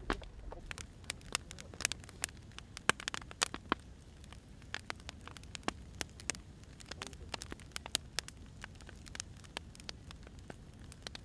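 Burning firewood crackling, with irregular sharp pops and snaps over a low steady rumble.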